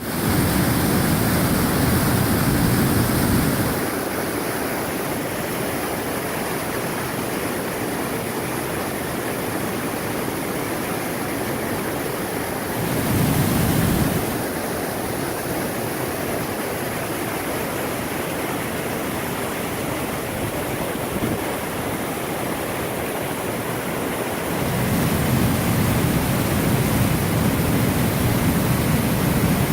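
Waterfall: a steady rush of falling water. It swells louder, with a deeper rumble, for the first few seconds, briefly in the middle and again near the end.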